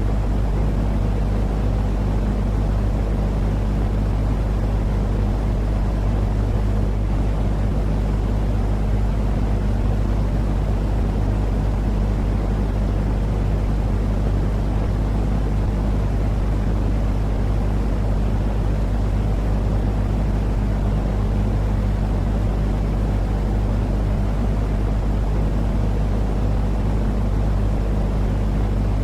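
Steady white-noise track for a baby's sleep: an unchanging low rumbling hiss with a constant deep hum underneath.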